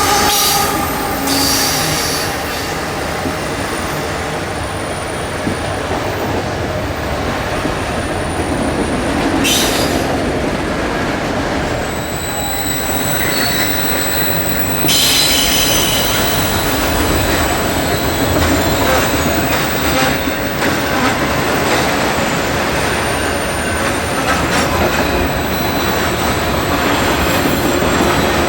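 Train rolling past, a continuous rumble of steel wheels on rail, with thin high wheel squeals coming and going. A few sharp knocks come through, about ten seconds in, again around fifteen seconds and near the end.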